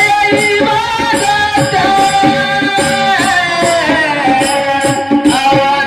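A man singing a Marathi devotional panchpadi in a high register, holding long notes that bend and slide downward through the middle, over a steady rhythm of hand-drum strokes.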